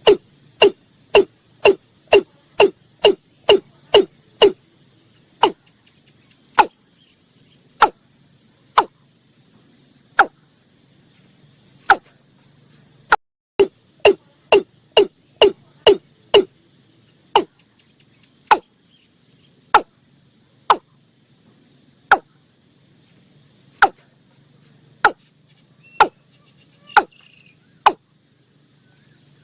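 Male watercock giving its deep 'toom' calls: loud single notes repeated about twice a second, slowing to one every second or so, with a second quick run about midway. A steady high cricket trill goes on behind.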